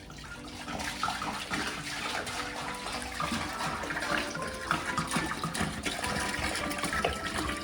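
Heavy rushing, splashing water, a dense crackling noise that comes up about a second in and cuts off suddenly at the end, with background music underneath.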